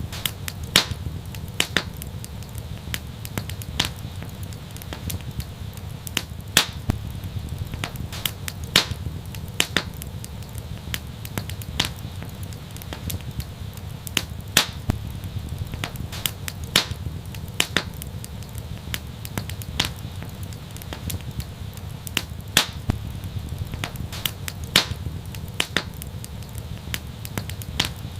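Wood fire crackling: frequent small snaps with louder sharp pops every second or two, over a low steady rumble.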